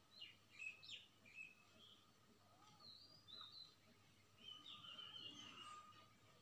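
Near silence, with faint small birds chirping and twittering in short high calls through it.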